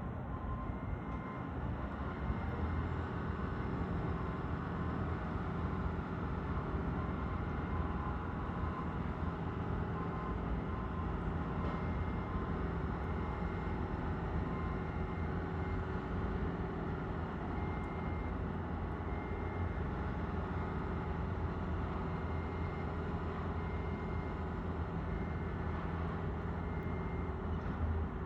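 Steady low engine rumble with a constant hum, unchanging throughout: urban machinery or traffic noise.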